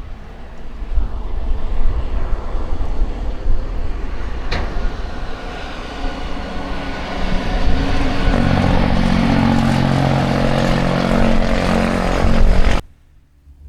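Heavy truck's diesel engine brake (jake brake) firing on a downhill, a loud rapid engine rattle that builds and grows strongest over the last few seconds, then cuts off suddenly near the end.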